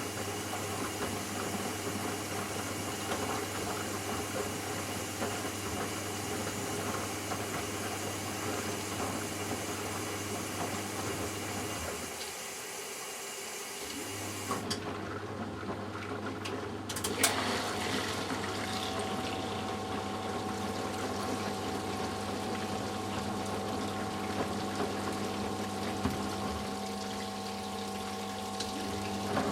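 Eudora Sparmeister 702 washing machine in its wash-liquor cool-down phase: water running into the machine over a steady low hum. The hum stops for a couple of seconds about twelve seconds in. A click comes a few seconds later, and the machine carries on with a slightly different steady tone.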